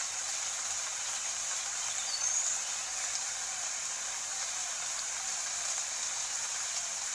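Steady rain falling, an even hiss with no breaks, with one brief high chirp about two seconds in.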